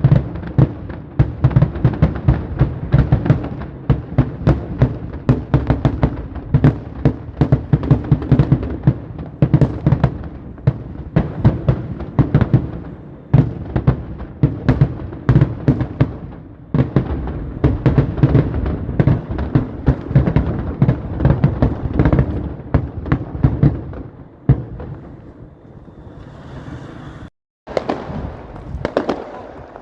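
Fireworks going off in a rapid, continuous barrage of sharp bangs and cracks, several a second, with a low rumble under them. The volley thins out near the end, breaks off briefly, then the bangs start again.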